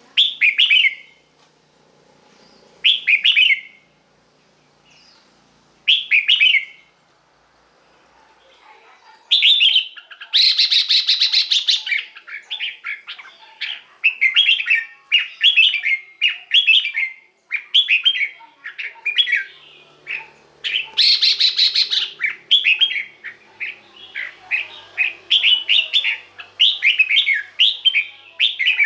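Red-whiskered bulbul singing. Three short phrases, each falling in pitch, come about three seconds apart. From about nine seconds in there is a fast, busy run of whistled notes, broken by two louder grating bursts about ten and twenty-one seconds in.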